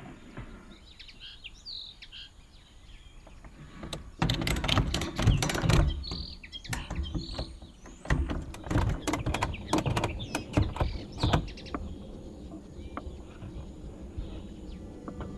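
Small birds chirping. From about four seconds in to about eleven seconds, a run of irregular knocks, crunches and rustles from close-by handling is louder than the birds.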